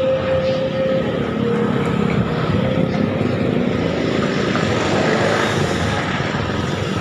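Vehicle engine and road noise, heard while riding through city streets; a steady, even rumble.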